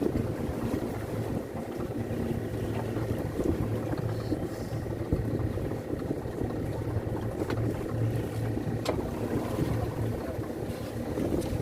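A boat's engine running steadily at a low hum, with wind buffeting the microphone.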